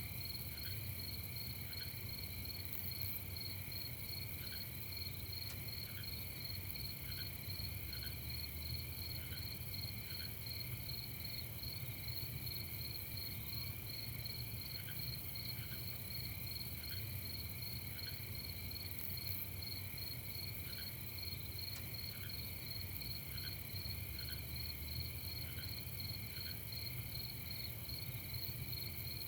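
Crickets and other night insects chirping steadily in several overlapping pitches, with short lower notes repeating irregularly and a faint low rumble underneath.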